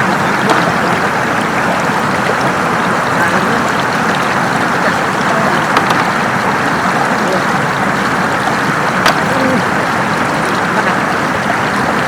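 Floodwater rushing steadily over a road, with a sharp click about nine seconds in.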